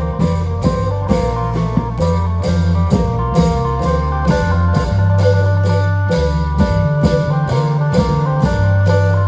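Isan klong yao band playing: long drums keeping a steady beat under a bass line and a plucked-string melody.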